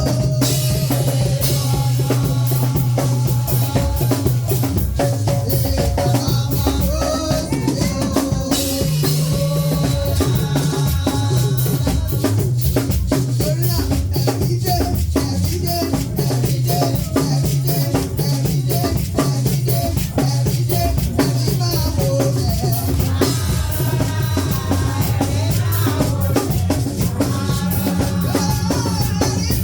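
Live band music with a drum kit playing a steady beat of bass drum and snare under a moving bass line and held melody.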